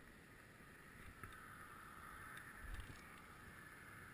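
Near silence: a faint steady hiss, with one soft low thump near the end.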